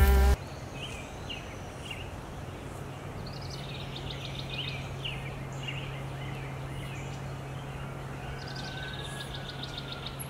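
Guitar music cuts off about half a second in, leaving outdoor ambience: several songbirds chirping and trilling over a faint steady hiss and a low hum.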